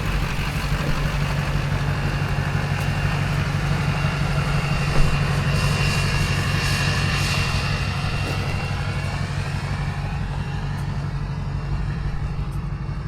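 Truck engine running steadily at low speed, a low even hum, with one short knock about five seconds in.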